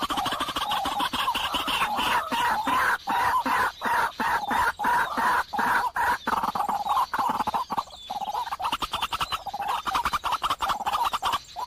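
Birds calling: a dense run of rapid, repeated notes, broken by short gaps every half second to a second.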